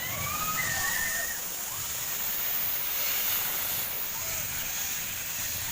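Steady hissing ambience of an indoor play hall, with faint distant voices calling in the first second or so.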